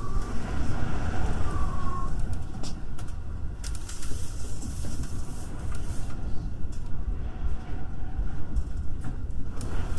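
Commuter electric train running on the rails, a steady low rumble with scattered clicks, and two brief high squeals in the first two seconds.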